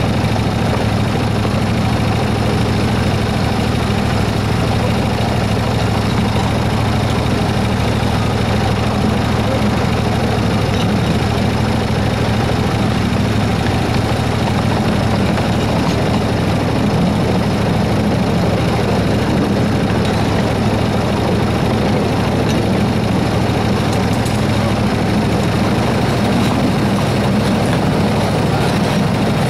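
Engine of a 7 1/4-inch gauge miniature Baldwin S-12 locomotive running steadily at a low, even pace, heard from the driver's seat.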